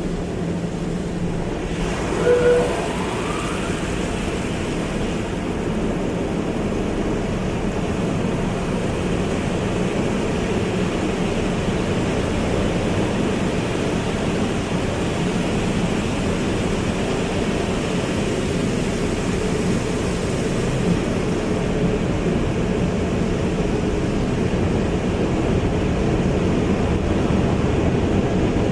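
Car wash running: a steady rush of water spray and machinery. A brief squeak sounds about two seconds in.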